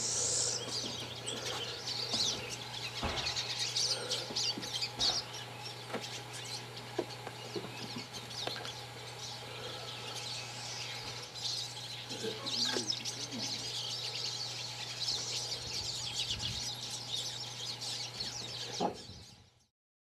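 Small birds chirping and twittering steadily over a constant low hum; the sound cuts off abruptly near the end.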